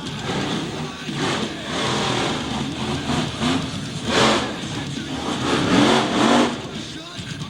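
Monster truck engine revving, its pitch rising and falling, with the loudest surges about four seconds and six seconds in.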